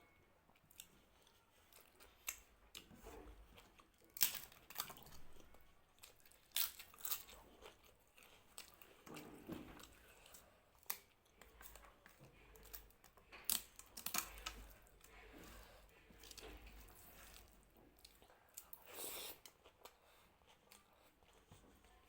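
A person chewing food close to the microphone, with irregular crisp crunches and bites every second or two.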